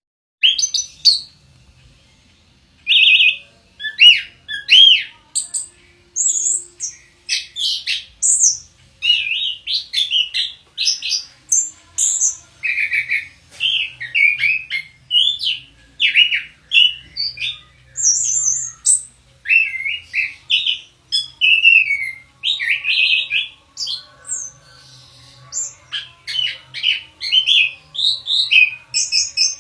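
Orange-headed thrush singing a long string of short, varied whistled phrases, one after another with brief gaps.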